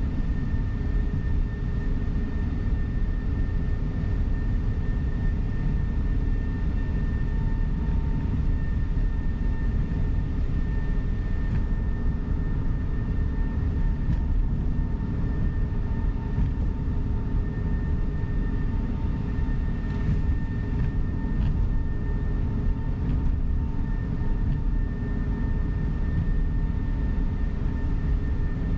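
Inside a coach bus on the move: the steady rumble of engine and road noise, with a faint steady whine over it.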